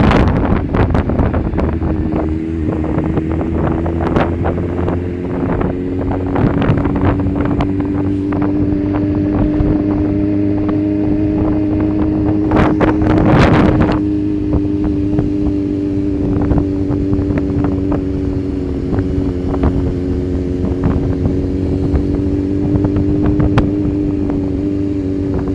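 Motorcycle engine running at a steady cruising speed, with wind buffeting the microphone. About halfway through there is a louder rush of noise lasting a second or two.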